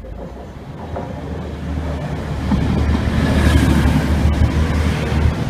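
Class 185 diesel multiple unit running along the platform close by: a steady low engine drone under a rushing wheel-and-rail noise. It grows louder as the unit draws near, at its loudest from about halfway in.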